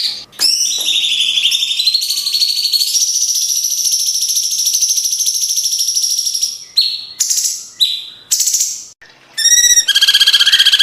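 Cucak cungkok singing fast, high trilled phrases: one long trill rising a step in pitch over about six seconds, then a few short broken notes, then another rapid trill starting near the end.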